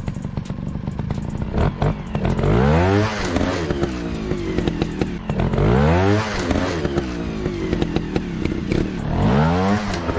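Dirt-bike engine revving up and dropping back three times, with scattered clicks and clatter throughout.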